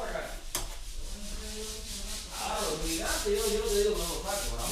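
Rubbing, scratchy noise, with faint voices talking underneath in the second half.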